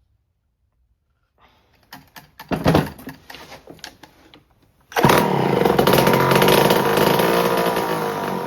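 Homelite C5 two-stroke chainsaw engine being pulled over with a few rattling pulls, then firing about five seconds in and running loudly for a few seconds, sagging in pitch as it starts to die. It runs only briefly on a try-start, a sign the owner takes as needing a carburettor rebuild.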